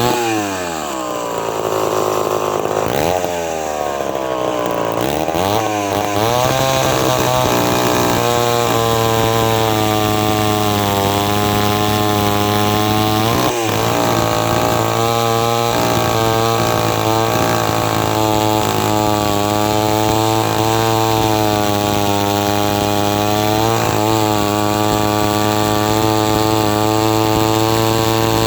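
David Bradley 5G-21 gear-drive chainsaw's two-stroke engine revving. It drops back at the start, climbs again and holds at high speed for most of the time with a couple of brief dips, then eases off at the end. With the high-speed needle closed 3/8 turn, the mixture is leaner and the engine is really singing at full throttle instead of running rich.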